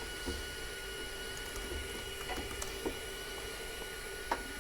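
Steady hum of room tone with a few faint light clicks, the most distinct about four seconds in.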